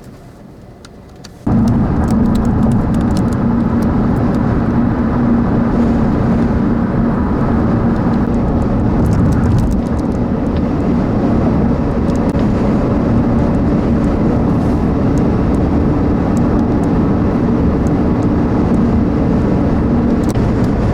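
Steady, loud vehicle and wind noise, starting abruptly about a second and a half in, with a low hum and rumble throughout.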